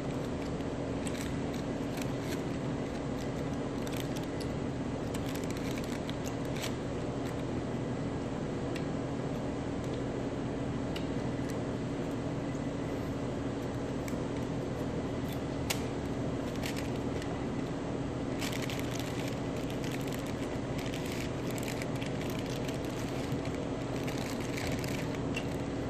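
Close-up chewing and crunching of a chicken quesadilla, with small crisp clicks and crackles that come thicker about two-thirds of the way through and again near the end, over a steady low mechanical hum.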